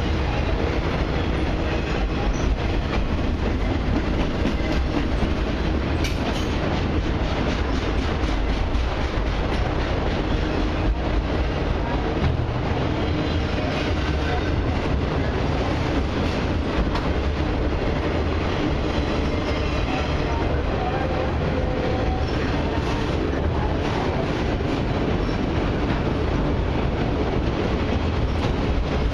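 Freight train of autorack cars rolling past at steady speed: a continuous rumble of steel wheels on rail with clickety-clack, and faint wheel squeal.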